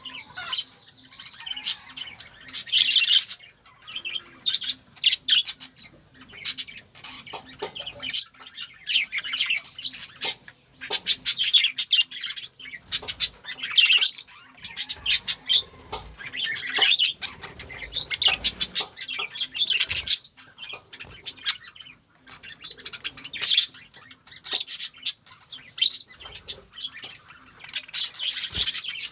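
Several budgerigars chirping and chattering without pause, a dense run of quick, high chirps and clicks from overlapping birds.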